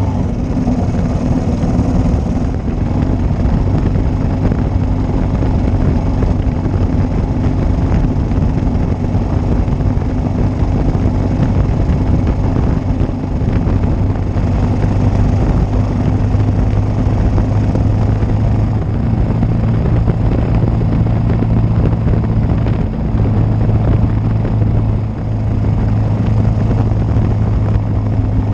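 1941 Matchless G3L's single-cylinder four-stroke engine running steadily while the motorcycle is ridden, with a short dip in level near the end.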